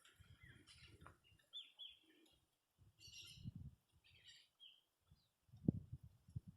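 Faint bird chirps: short, falling, high-pitched calls a few times, with low rumbling bumps in between, loudest one near the end.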